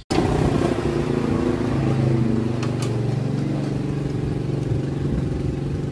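Car engine running after a brief rev: its pitch eases down over the first two seconds, then holds steady.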